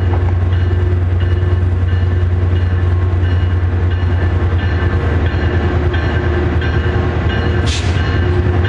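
A train's locomotive running with a loud, steady low rumble, while a bell rings about twice a second. A short hiss of air comes near the end.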